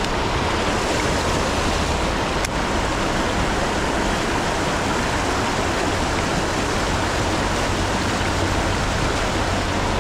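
Creek water rushing steadily through a stretch of current.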